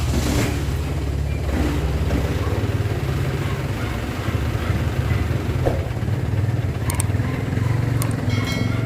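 Isuzu 4JA1 four-cylinder diesel engine idling steadily. It is a worn engine that the owner says smokes heavily from the exhaust and has strong blow-by, signs of lost compression.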